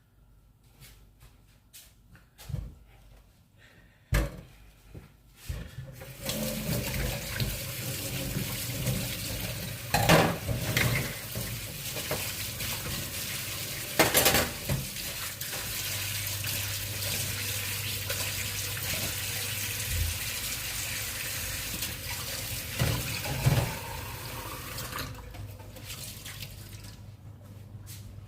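Water running steadily from a kitchen tap into a sink for about twenty seconds, with a couple of sharp knocks of pots or dishes during the flow. It is preceded by a few light handling clicks.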